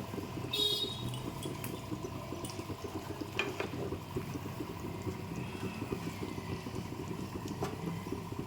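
Creamy chicken gravy bubbling and simmering in a kadai over a gas flame, a steady low popping throughout. A few light clicks sound over it.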